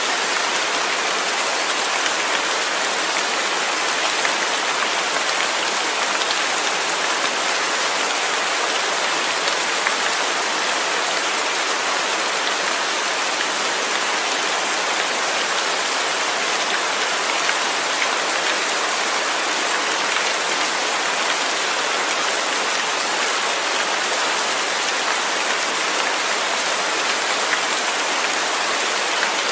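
Rain falling steadily, a dense even hiss without pause or change.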